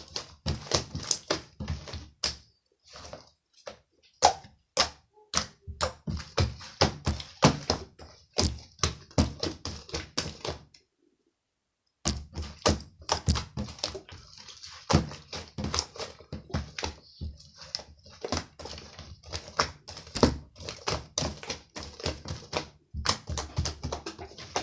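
Rapid, irregular tapping and knocking, several sharp taps a second, cutting out completely for about a second near the middle.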